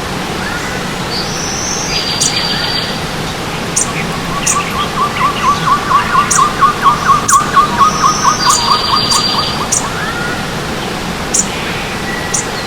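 Forest birds singing over the steady rush of a running stream. One bird gives a long run of repeated whistled notes, about four a second, from about four seconds in to past the middle, while others add short high chirps and a couple of buzzy phrases.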